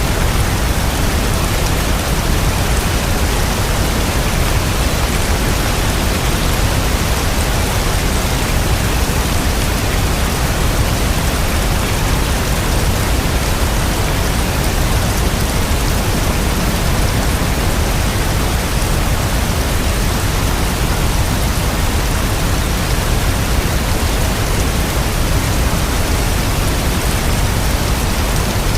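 Steady rain falling: an even, unbroken hiss with a strong deep rumble beneath it and no thunder claps.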